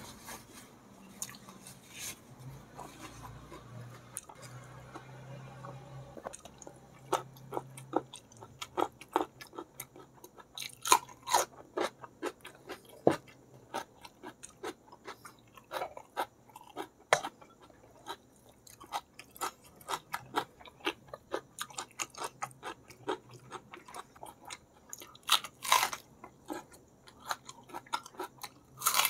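Close-miked eating: wet chewing and mouth clicks of spicy balado squid and rice, with sharp crunches. It is quieter for the first several seconds, and the loudest crunches come near the end as a raw red onion is bitten.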